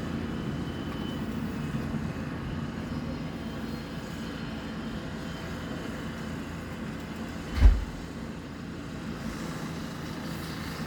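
Steady low engine rumble of vehicles or machinery, with one short, deep thump about seven and a half seconds in.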